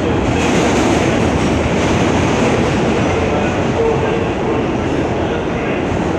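An R160 subway car in motion, heard from inside the car: a steady, loud rumble and rattle of wheels on the track, with faint on-and-off tones in the middle of the noise.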